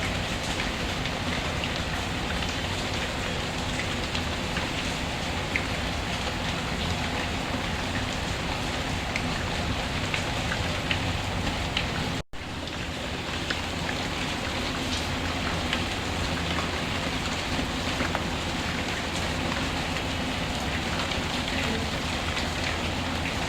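Steady rain falling, an even hiss with scattered light ticks of drops. The sound cuts out for an instant about halfway through.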